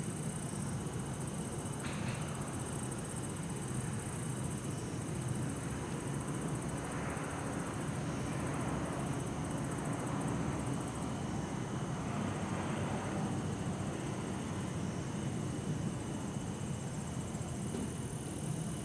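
Night-time town ambience: a steady low rumble of distant traffic under the continuous high trilling of bell crickets (suzumushi). Traffic noise swells for a few seconds in the middle.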